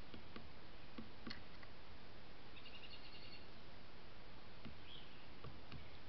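Steady hiss with a few faint clicks, and a short rapid trill from a small bird about halfway through, followed by a brief chirp near the end.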